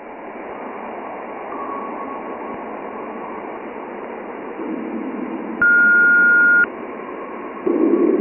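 Radio static hiss with a faint steady tone through it. A little past the middle a single clean beep sounds for about a second, and near the end a louder burst of rushing static cuts in.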